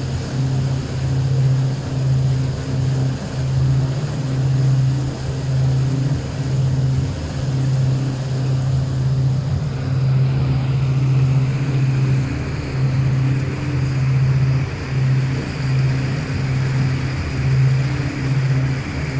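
Boat engine running steadily while under way, a low hum that pulses slightly, over the rush of water.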